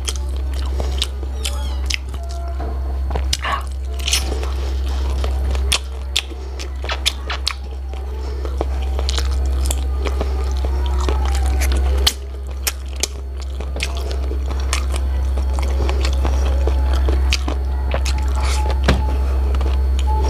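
Close-miked chewing and biting on braised chicken feet: wet mouth sounds with many short clicks and smacks as the skin and small bones are gnawed, over a steady low hum.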